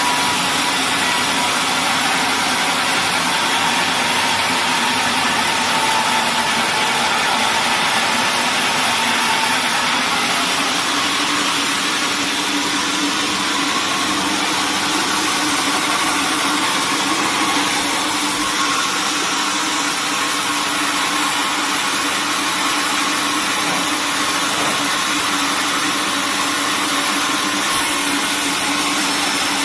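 Sawmill machinery running steadily: a constant, even mechanical drone with no change in pitch or loudness.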